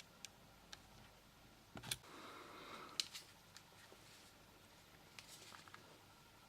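Faint handling of a small plastic nose and ear hair trimmer: a scattering of light plastic clicks, the loudest a little under two seconds in and at about three seconds, with a brief rustle between them.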